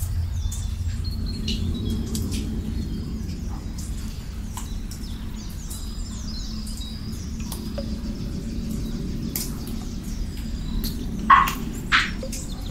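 Small birds chirping and twittering in short high calls over a steady low rumble of ambience. Near the end come two louder, sharp sounds, about half a second apart.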